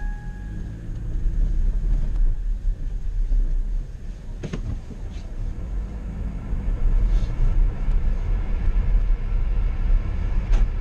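Car engine running with a steady low rumble, with a few brief clicks about four seconds in and near the end.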